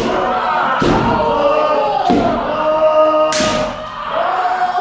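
Kendo kiai: several people giving long, drawn-out shouts that overlap, with sharp shinai strikes landing on armour about once a second, around five in all.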